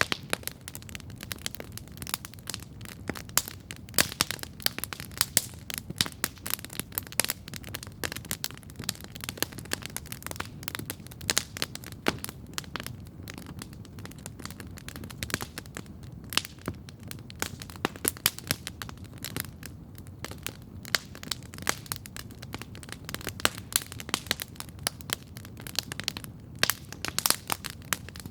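Wood campfire crackling steadily, with dense irregular pops and snaps over a low, steady rumble of burning.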